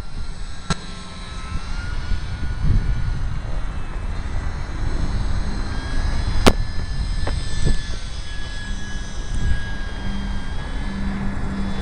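Strong wind buffeting the microphone, with the thin whine of an ultra-micro RC airplane's electric motor and propeller, its pitch shifting slightly as the throttle changes. A few sharp clicks break in, one just under a second in and two more past the middle.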